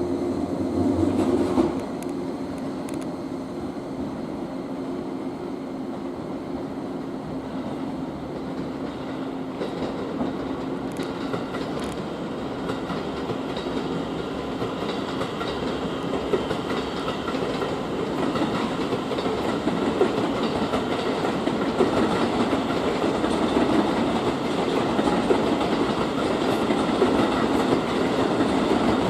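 A 115-series electric train running on the rails, with wheel noise and clickety-clack over the rail joints that grows slowly louder. A steady hum cuts off about two seconds in.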